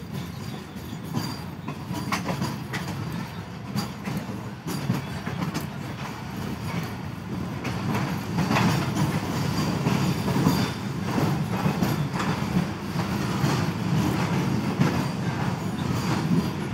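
Passenger train coach running along the track, a steady low rumble with the clickety-clack of wheels over rail joints. It grows louder about halfway through.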